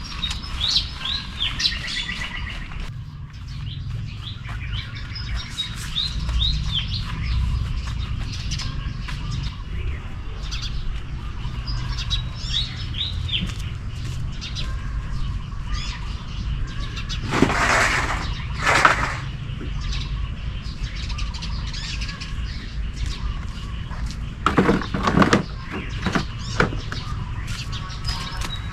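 Small birds chirping and calling throughout, over a steady low rumble. Two loud rustling bursts come about two thirds of the way in, and a short cluster of sharp noises comes near the end.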